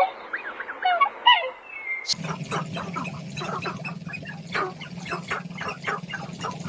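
Bird calls: a few separate, bending chirps, then an abrupt change about two seconds in to a dense clamour of many birds calling at once over a low, steady drone.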